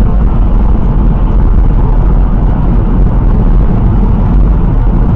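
Loud, steady rumble of a car being driven, picked up by a dashcam microphone: engine and road noise, heaviest in the bass, starting abruptly.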